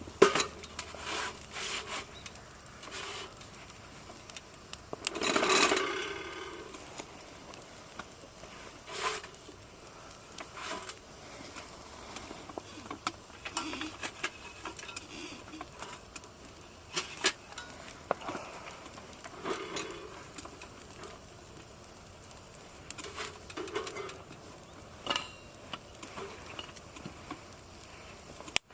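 Scattered small clicks, taps and rustles of camping gear being handled, with one louder rustle about five seconds in.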